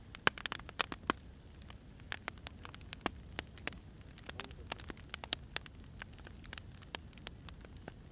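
Firewood burning: irregular sharp crackles and pops over a low steady rumble, the loudest pop just after the start.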